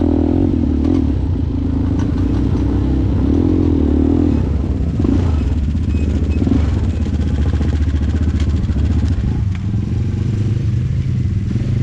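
ATV engine running steadily, its pitch wavering up and down with the throttle in the first few seconds, with some clatter over it.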